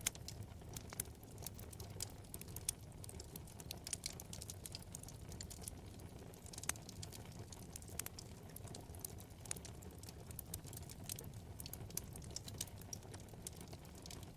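Wood fire crackling in a fireplace: a dense run of small irregular snaps and pops, a few louder ones, over a low steady rumble of the flames.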